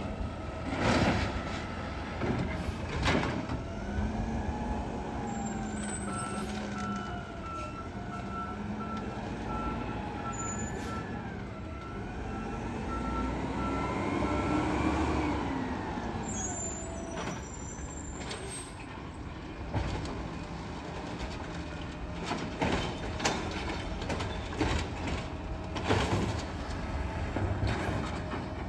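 Garbage truck at work: its engine revs up and down several times, a backup beeper sounds a run of steady beeps from about six to fifteen seconds in, and sharp metallic knocks come near the start and again toward the end.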